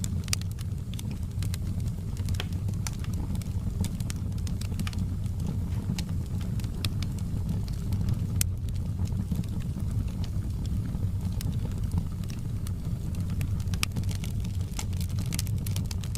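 Fireplace fire crackling: a steady low roar of the flames with irregular sharp pops and snaps from the burning wood.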